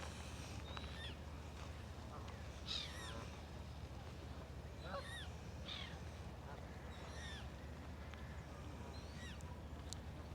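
A flock of geese calling faintly, with short honks every second or two over a steady low background hum.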